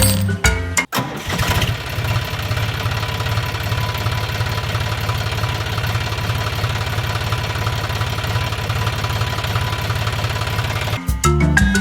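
Small tractor engine running steadily, with a fast, even chugging like a diesel at idle. Background music cuts off about a second in and comes back near the end.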